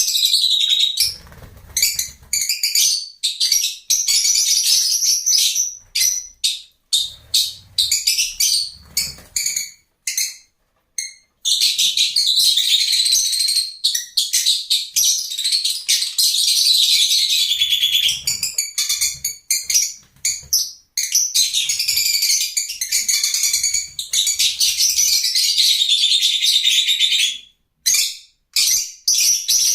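Lovebirds chattering: a dense stream of shrill chirps and squeaks, broken by many short gaps in the first ten seconds, unbroken through the middle, with a few more gaps near the end.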